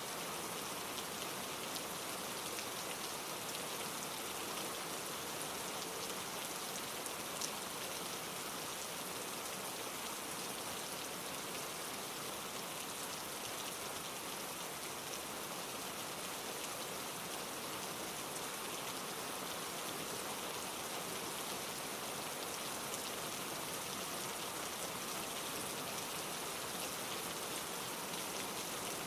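Steady rain falling on leaves, a dense patter of many small drops with no pauses, and one slightly sharper drop tick about seven seconds in.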